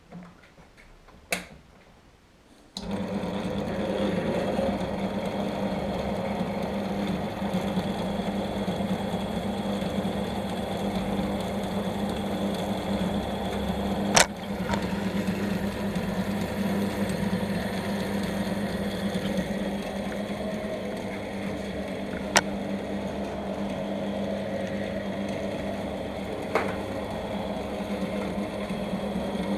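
Electric machine tool starting up about three seconds in and then running steadily with a low hum. A few sharp clicks or knocks sound over it.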